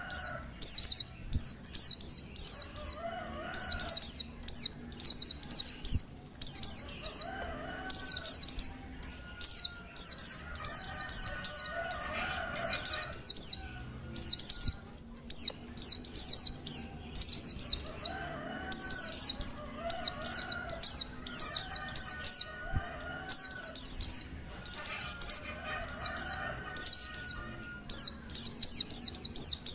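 Female white-eye (pleci) calling: tight bursts of four to six quick, high, downward-sweeping notes, repeated about once a second. Fainter, lower chirps sound underneath.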